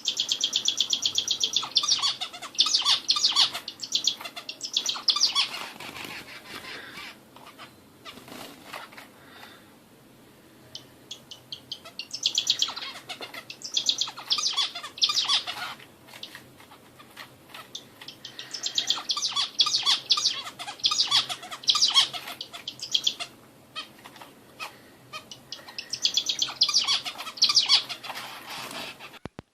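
A songbird singing in four bouts of rapid, repeated high chirps and trills, each lasting a few seconds with short pauses between them, over a faint steady low hum.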